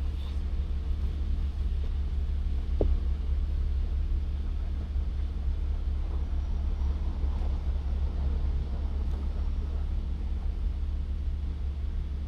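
Toyota Avalon engine idling steadily, with one short click about three seconds in.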